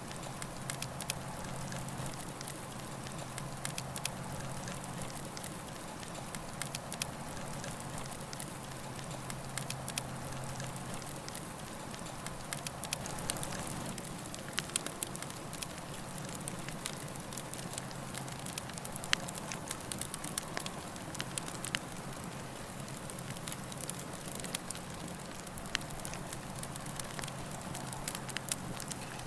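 Campfire burning, with a steady hiss and many small irregular crackles and pops from the burning wood.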